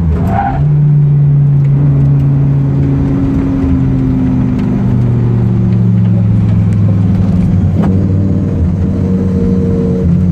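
Track car's engine running hard under load, heard from inside the stripped, caged cabin. The engine pitch dips and picks up again right at the start, then holds fairly steady with small shifts in pitch.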